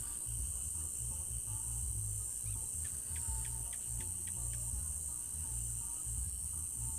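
Crickets chirring in a steady high-pitched drone over a low rumble. About three seconds in, a quick run of about six short, sharp calls comes from another animal.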